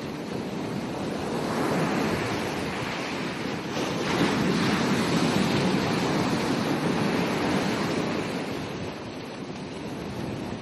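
Ocean waves breaking and washing up a beach. The surf swells about two seconds in, surges again about four seconds in, then eases off near the end.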